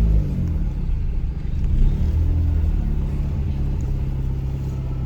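A Volkswagen Gol G3's engine runs at low speed while the car creeps over. Its revs rise and fall briefly near the start and again about two seconds in, then settle to a steady low hum.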